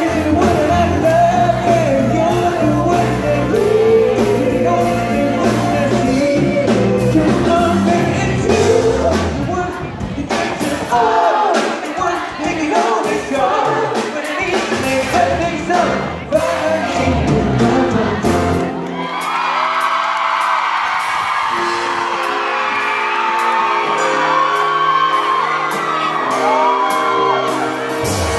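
Live pop music: a singer with a backing band, with whoops and shouts from the audience. About nineteen seconds in, the bass drops away and the singing and higher parts carry on.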